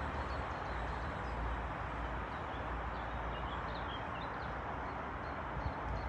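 Railway station ambience: a steady rumbling noise, with a few short bird chirps about three to four seconds in.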